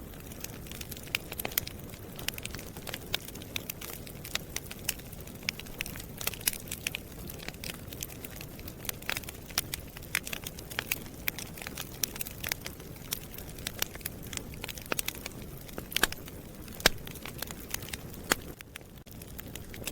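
Wood fire burning in a fireplace, crackling and popping with many sharp snaps over a steady low rumble of the flames. A few pops stand out louder, around the sixteen- and seventeen-second mark, and the crackling thins briefly near the end.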